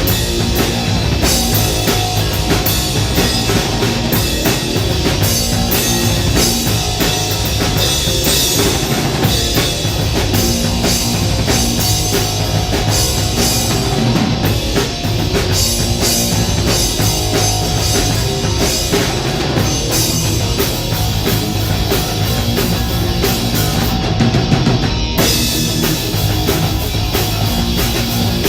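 A live rock band playing an instrumental passage: a driving drum kit with distorted guitars and bass, no vocals.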